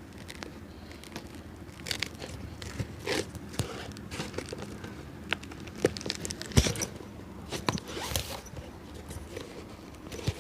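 A cobbler's hand tools working on an old shoe's sole: irregular sharp taps, clicks and scraping, with one louder knock a little past halfway.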